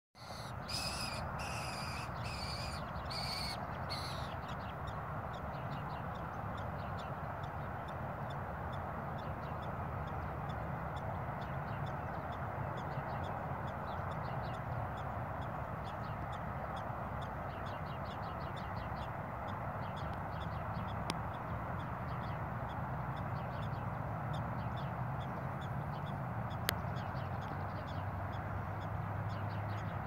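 A bird gives a rapid series of loud, sharp calls over the first four seconds as it goes after a skunk, then falls silent. After that there is a steady outdoor noise bed with faint rapid ticking.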